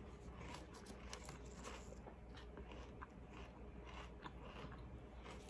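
Faint crunching and chewing of a mouthful of Special K Red Berries cereal in milk, a run of small irregular crunches.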